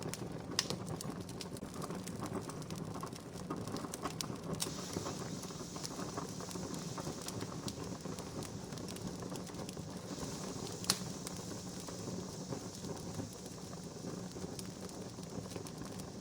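Wood fire burning with a steady hiss and many small crackles, and two sharper pops, one about half a second in and one near eleven seconds.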